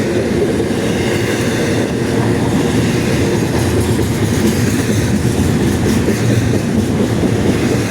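Railroad cars rolling past on the track: a steady rumble of wheels on rails.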